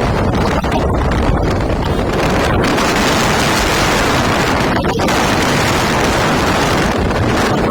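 Heavy wind buffeting the microphone of a camera on a motorcycle at high speed, a loud steady rush that hides most of the engine and road noise.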